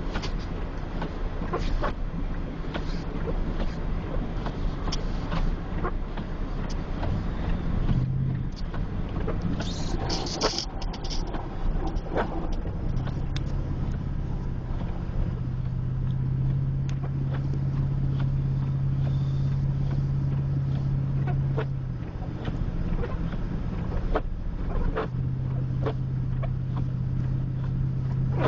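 Truck driving on a snow-covered road: the engine and tyres drone steadily, with scattered clicks and knocks. There is a short hiss about ten seconds in, and a steady engine hum settles in from about thirteen seconds.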